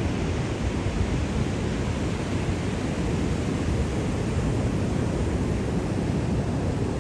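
Sea surf washing steadily, an even rushing noise with a low rumble and no single wave standing out.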